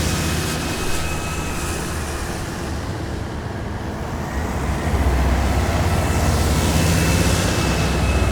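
Heavy military vehicles driving past one after another, engines rumbling with a faint steady whine above. The sound eases as one vehicle moves off, then grows louder again about halfway through as the next one comes by.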